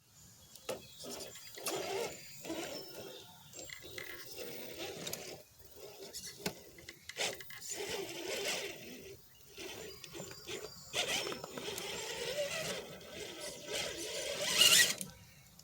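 Redcat Gen7 RC rock crawler's electric motor and gears whining in short, irregular throttle bursts, with a louder, hissier burst near the end.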